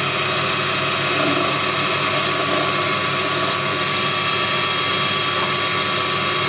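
Proxxon PD 250/E mini lathe running steadily while refacing the face of a small threaded part, a steady whine over a hiss.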